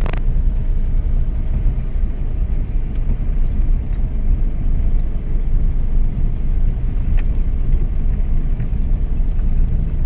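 Steady low rumble and road noise of a moving vehicle, with a few light clicks.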